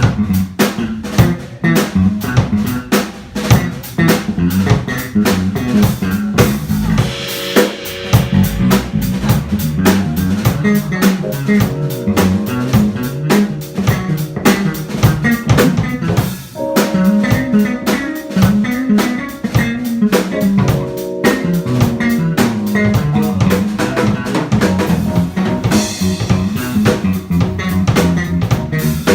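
Live jazz band playing: a busy drum kit with snare and rimshots, a walking bass line, and guitar and piano chords that come in several seconds in.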